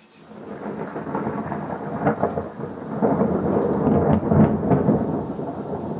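A roll of thunder that begins just after the start and builds with crackling peaks, loudest in the second half. It is still rumbling at the end.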